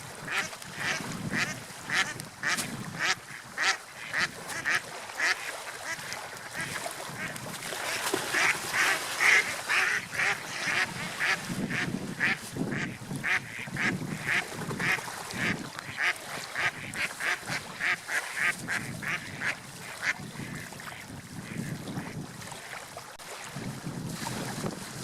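Gulls calling over and over, short cries about two a second, with the low wash of sea waves beneath.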